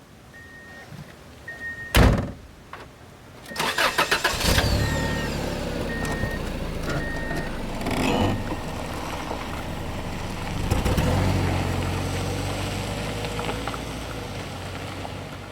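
A car's engine starting and then running steadily, with a repeating high beep chime before and through the start and a sharp thump about two seconds in.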